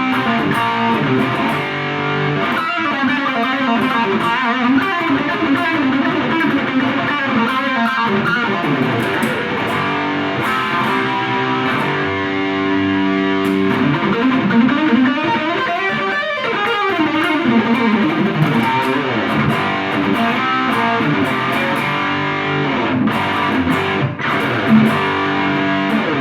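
Distorted electric guitar played through an Abeid Custom Mid Gain overdrive pedal into an amplifier in the room, a continuous riff with some held chords. The pedal is in its American mode, which gives more bass, more treble and a little more gain.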